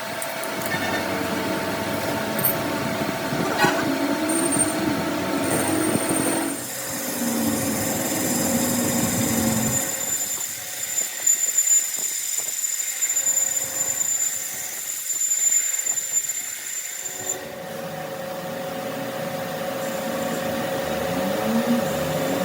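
Workshop machinery running steadily with a whining tone. Partway through, the deep part of the sound drops away for several seconds, then returns.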